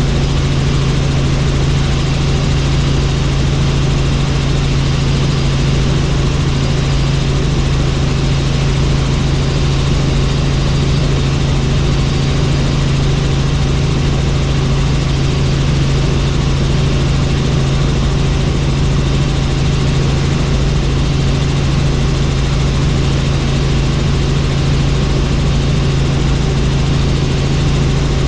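Helicopter in flight: a steady, loud rotor and turbine drone with a strong low hum that does not change.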